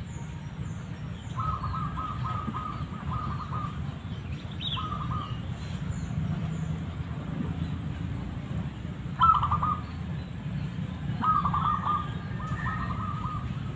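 A bird calling in four bouts of quick, short repeated notes, the third bout the loudest, over a steady low rumble.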